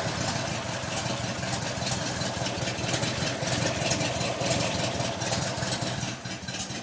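Porsche 356 with a 60 hp Normale air-cooled flat-four engine idling steadily with an even pulse while warming up, dropping away near the end.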